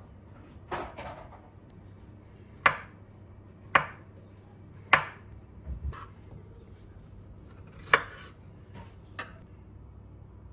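Kitchen knife striking a cutting board in slow, separate cuts: about six sharp knocks, roughly a second apart, with a couple of soft low thumps in the middle.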